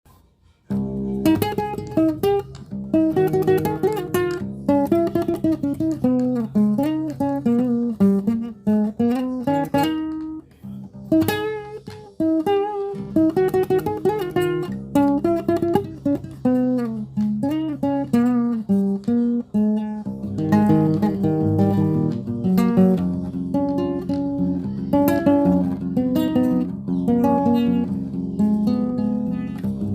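Guitar music: a plucked melody with some notes bending in pitch. From about twenty seconds in it gives way to fuller strummed chords.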